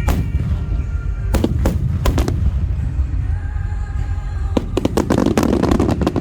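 Aerial fireworks shells bursting: a few separate bangs in the first two and a half seconds, then a rapid run of bangs and crackling from about four and a half seconds in, with music playing underneath and a steady low rumble.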